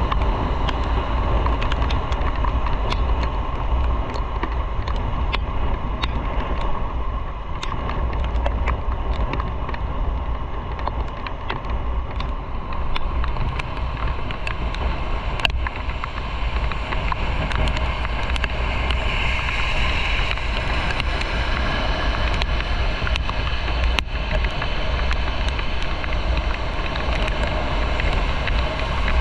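Motorcycle under way: a steady low rumble of wind buffeting the microphone, mixed with engine and road noise.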